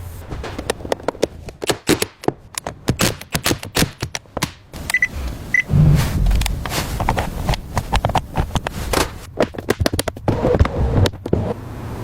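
A rapid, irregular series of sharp clicks and light knocks, with one heavier low thud about six seconds in.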